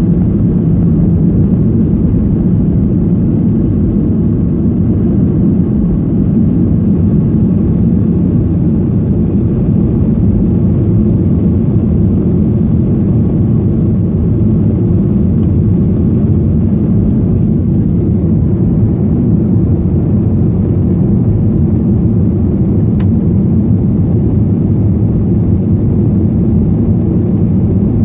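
Steady, loud jet-aircraft cabin noise inside a Boeing 737-800: a low rumble of its CFM56 turbofan engines and airflow that holds an even level without spooling up or down.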